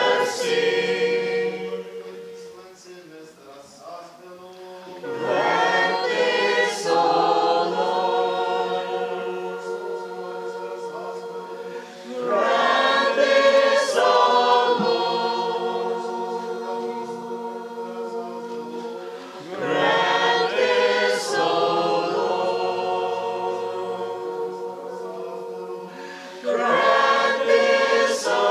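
Church choir singing a cappella in the Ukrainian Catholic liturgy, in four phrases about seven seconds apart. Each phrase ends on a long held chord that slowly fades, in the manner of the sung litany responses.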